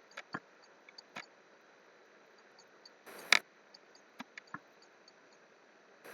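Scattered clicks of a computer mouse and keyboard, single sharp taps with a louder short clatter a little past three seconds.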